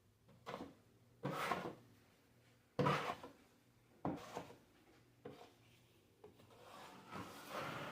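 A drywall knife scraping joint compound across a drywall patch in repeated strokes, roughly one a second.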